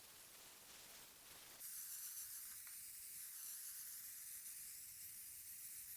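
Paint being sprayed onto the furniture: a faint, steady spray hiss that starts abruptly about a second and a half in.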